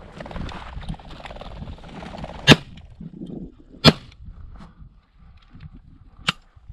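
Shotgun fired twice, two loud sharp shots about a second and a half apart, followed by a fainter sharp crack near the end.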